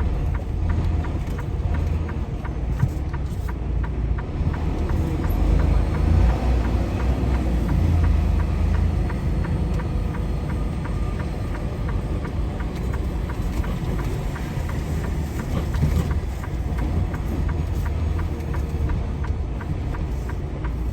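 Semi truck's diesel engine running with a steady low rumble, with road noise, heard from inside the cab while the truck is driven.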